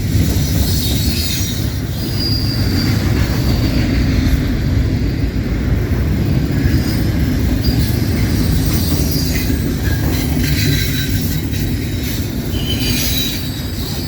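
Double-stack intermodal freight cars rolling past at track speed: a steady, loud rumble of steel wheels on rail, with thin high wheel squeals a couple of seconds in and again near the end, and a few short clicks near the end.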